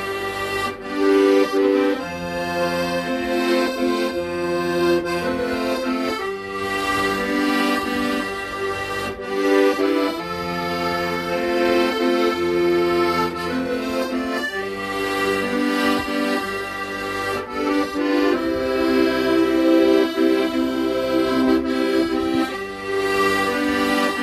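Accordion playing a slow melody over held chords, with bass notes that change every second or two.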